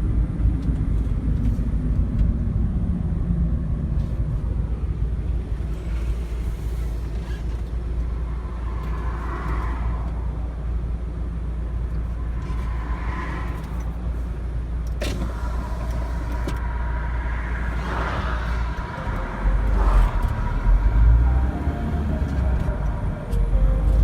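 Car driving along a road, with a steady low rumble of engine and tyres, louder for a couple of seconds about three-quarters of the way in.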